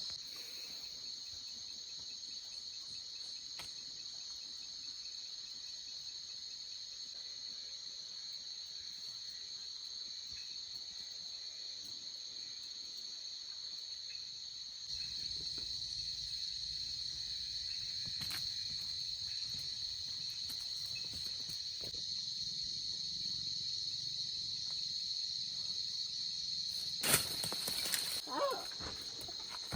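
Steady, high-pitched chirring of insects, a little louder from about halfway. Near the end comes a loud brief knock or rustle, followed by a few short wavering cries.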